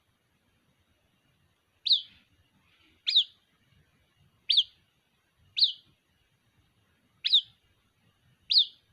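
White-breasted waterhen chick calling for its mother: six short, high, sharp peeps about a second apart, starting about two seconds in.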